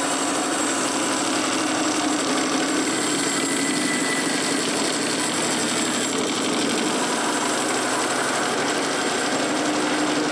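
Power saw running steadily while cutting blanks from an oak log.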